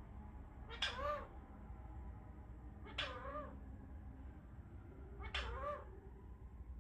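An Indian ringneck parrot imitating a cat's meow three times, each call rising then falling in pitch, about two seconds apart.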